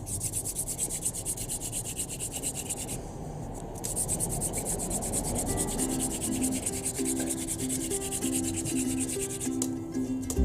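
Wooden hand-drill fire starter: a wooden spindle spun back and forth between the palms and ground into a wooden hearth board. It makes a fast, even rhythmic rubbing that pauses briefly about three seconds in. The friction is building heat to make an ember.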